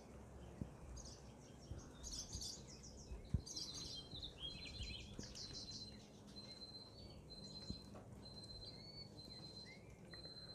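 Killdeer calling: faint bursts of rapid, shrill high calls, with a thin high note coming and going in the second half, over a low steady outdoor rumble.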